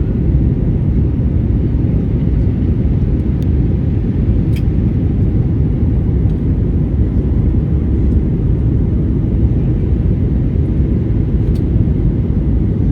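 Cabin noise of an Airbus A321neo: a steady low rumble of jet engines and rushing air, with a few faint ticks.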